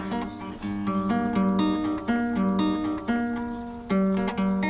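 Acoustic guitar played with plucked notes: a short melodic phrase that starts over about four seconds in. A beginner is repeating the one passage he has learned.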